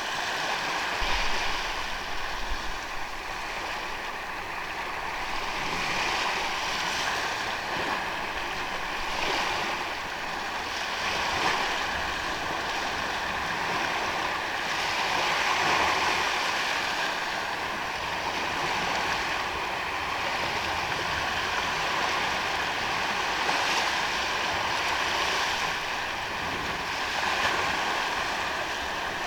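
Small sea waves washing onto a sandy beach: a continuous wash that swells and ebbs every few seconds as each wave breaks and runs up the sand.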